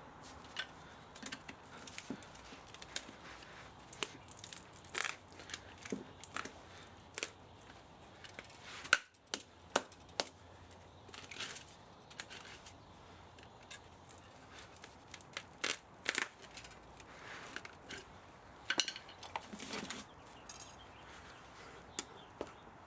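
Irregular clicks, knocks and scraping of hand tools and metal parts as an old spa motor is taken apart for scrap, with one sharper knock about nine seconds in.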